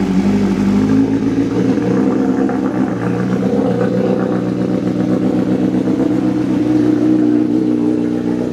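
Honda Fireblade CBR1000RR-R SP inline-four engine idling steadily through a freshly fitted SC-Project titanium aftermarket exhaust, moments after its first start-up with that exhaust.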